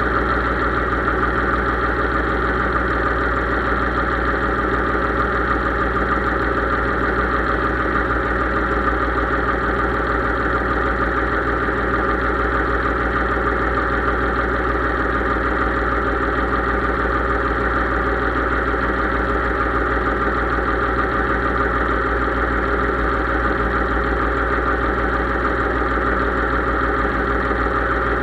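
Case IH 3220 tractor engine running steadily at an even speed.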